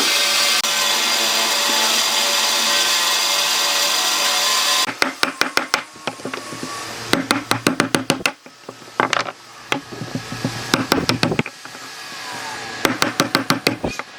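A power tool runs steadily on wood, then stops about five seconds in; after that come quick runs of sharp knocks on wood, several a second, in groups with short pauses between.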